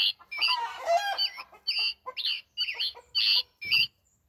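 Sound chip in a Scarlet Tanager toy bird playing a recorded Scarlet Tanager song: a run of short chirping phrases about half a second apart, stopping a little before four seconds in.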